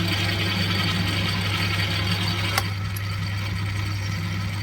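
Metal lathe running steadily under power feed while the tool takes a roughing cut in aluminium. There is a single sharp click about halfway through, after which the higher cutting hiss eases.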